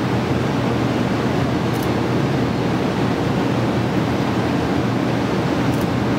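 Steady rushing noise with a faint even hum from a Kyushu Shinkansen 800 series train standing at the platform, its onboard equipment running while stopped.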